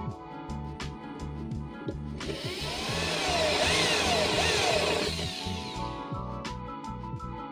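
A power tool runs for about four seconds, starting about two seconds in, with a noisy whine that sweeps up and down in pitch, over steady background music.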